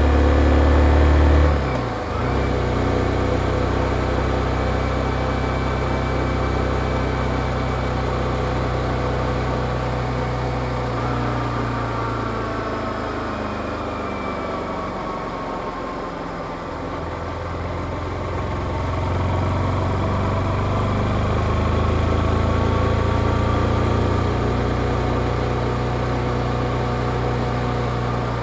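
Yamaha XSR155's single-cylinder engine heard through its stock exhaust while riding. The revs drop sharply about two seconds in, then the engine runs steadily, easing off gradually near the middle and picking up again after.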